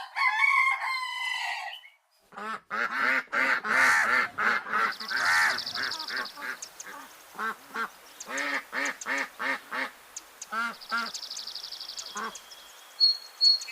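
Domestic waterfowl honking: a long run of short, repeated nasal calls, some coming about two or three a second, after a brief warbling sound at the start. A high, thin buzz comes in twice behind them.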